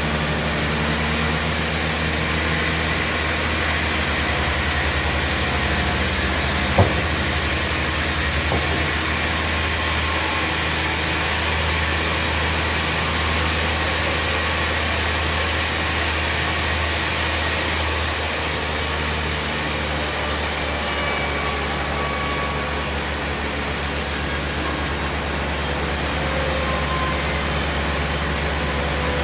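Band sawmill running steadily, a low machine hum under a wide hiss, with a sharp click about seven seconds in. A brighter high hiss rises from about nine to eighteen seconds in.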